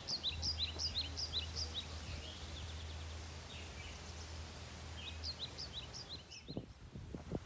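A bird calling in two quick runs of short, high chirps, one at the start and another about five seconds in, over a steady low hum that stops about five seconds in. A few dull knocks near the end.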